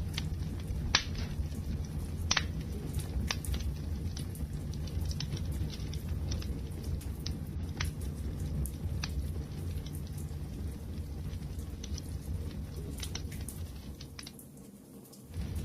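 Wood fire crackling: a steady low rumble of flames with scattered sharp pops and snaps. The sound dips briefly near the end, then comes back.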